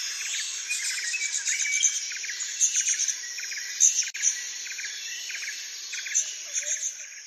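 Birds chirping, short calls repeating about twice a second, over a steady din of insects.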